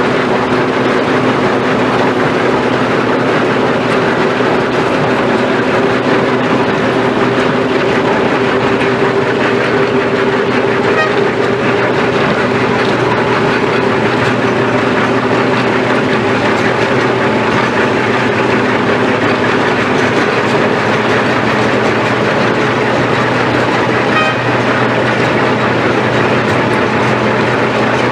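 Asphalt milling machine at work: a loud, steady grinding noise with an even engine hum underneath.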